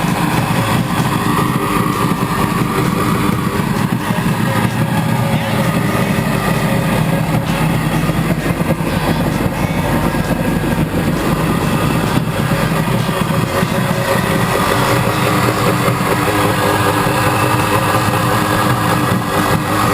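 Kawasaki JS440 stand-up jet ski's two-stroke twin-cylinder engine running steadily, its pitch wavering slightly.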